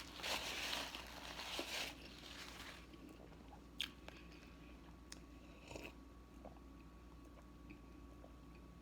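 A person chewing food close to the microphone: crunchy chewing for the first two or three seconds, then quieter chewing with a few small clicks.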